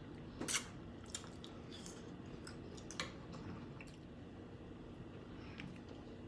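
Wet chewing and squishing as people eat a seafood boil of shrimp in butter sauce, with scattered sharp clicks, the loudest about half a second in and at about three seconds.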